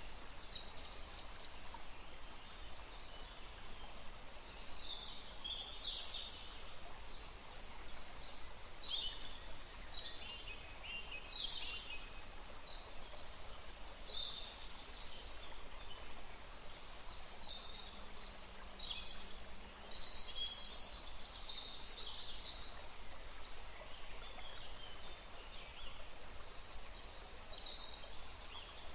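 Birds chirping and singing, many short high calls following one another, over a steady background rush of outdoor noise.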